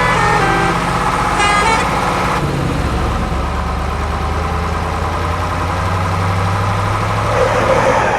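Toy truck engine sound effect, a steady low drone, with pulsing horn-like tones during the first two seconds.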